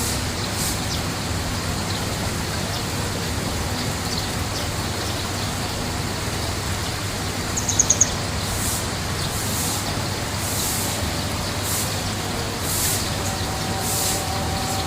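A bird gives a short call of four quick high chirps about eight seconds in, over a steady rushing background noise, with fainter high calls scattered throughout.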